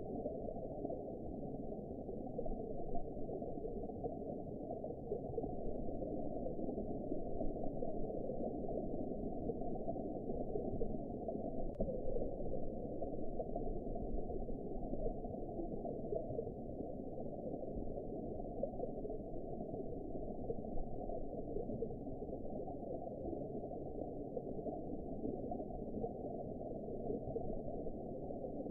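Underwater ambience: a steady, muffled, low water wash and rumble, with nothing high-pitched in it and no change over the whole stretch.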